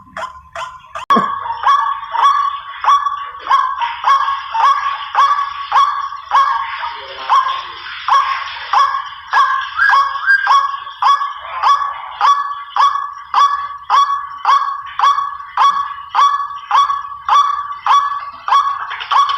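White-breasted waterhen (ruak-ruak) call played as a hunting lure: a loud call repeated evenly about twice a second. There is one sharp knock about a second in.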